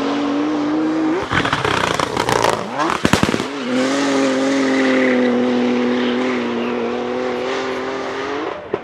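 A drift car's engine at high revs. The pitch climbs, then there is a rough stretch of crackles and bangs for about two seconds. After that the engine holds a steady high note over a hiss of tyre noise, and it cuts off suddenly near the end.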